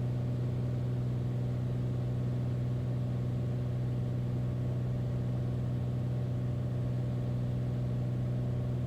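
Steady drone of a Beechcraft Bonanza A36's six-cylinder piston engine and propeller, heard from inside the cockpit in level flight at traffic pattern altitude with the gear down. The pitch and loudness hold constant throughout.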